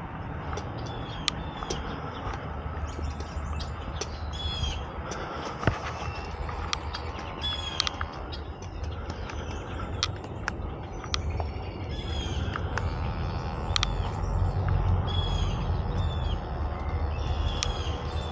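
Birds chirping in short, repeated calls over a steady low rumble that grows louder in the second half, with scattered sharp clicks.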